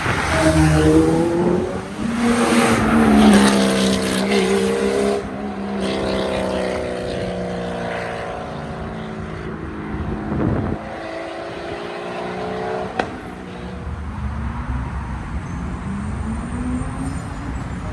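A car engine revving, its pitch climbing and falling repeatedly, loudest in the first five seconds and settling to a steadier run after; a sharp click about thirteen seconds in.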